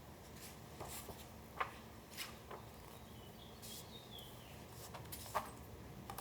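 Quiet paper handling: scattered light clicks and short rustles as paper pieces are picked up, moved and set down. The two sharpest taps come about a second and a half in and near the end.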